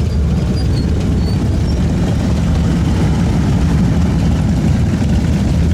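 Motorcycle engines running, a steady deep rumble.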